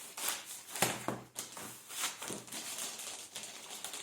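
Rustling and light knocks of a laptop and its packaging being handled, in a string of short bursts with a firmer knock about a second in.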